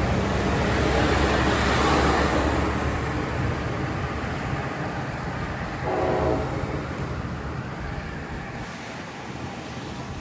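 Diesel train running past and pulling away, its engine and wheel noise fading, with a short horn blast about six seconds in.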